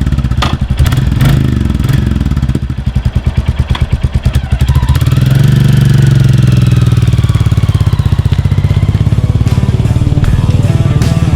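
Royal Enfield Classic 350's single-cylinder engine and exhaust thumping under way. Off the throttle for a couple of seconds, then accelerating with rising pitch before settling to a steady run.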